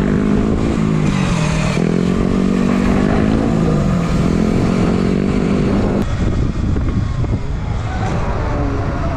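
Petrol dirt bike engine running and being blipped, its pitch dipping and rising a couple of times, then cutting off suddenly about six seconds in. A steady low rumble runs underneath.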